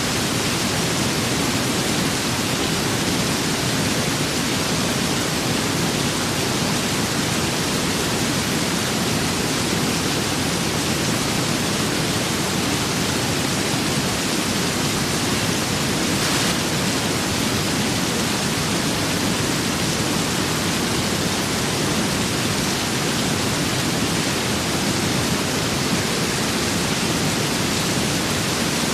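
Steady rain with wind: a dense, even hiss of rainfall that keeps a constant level throughout.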